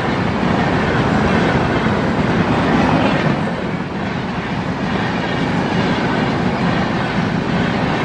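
Red-and-silver LHB passenger coaches of an express train passing close at speed: a loud, steady rush of wheels on rails, dipping briefly about four seconds in.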